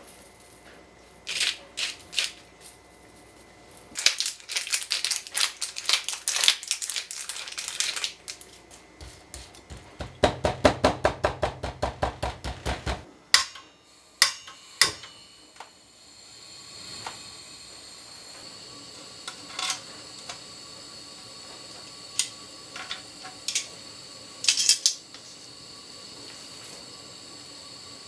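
Kitchen food preparation: scattered clicks and knocks, then two runs of quick, regular knocks, followed by a faint steady hiss with a few sharp clinks.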